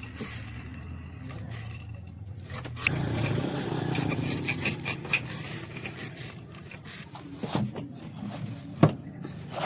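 Metal scraping and rubbing as a pumpset engine's cylinder head is ground, growing louder about three seconds in, with a few sharp knocks near the end.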